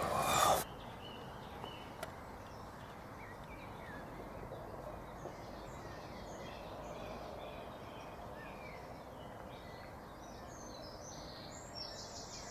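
Small birds chirping faintly in the woods over a steady low hiss, the chirps coming thicker near the end. A brief loud noise right at the start is the loudest moment.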